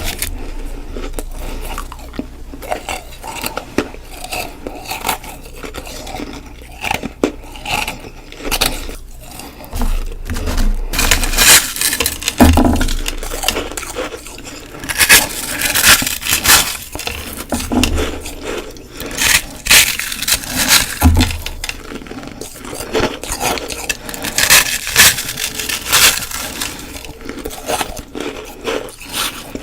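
Ice being bitten and chewed close to the microphone: a run of sharp, irregular crunches and crackles, with louder clusters of bites partway through.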